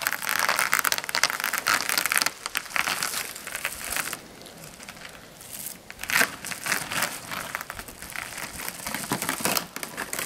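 A roll of barrier sheeting being unrolled and pulled out, crinkling and crackling in two long stretches with a short lull near the middle.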